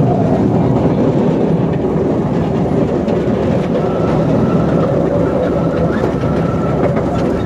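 Small park train rolling along its track, heard from an open wooden passenger car: a steady noise of wheels running on the rails, with a faint thin tone that comes in about four seconds in.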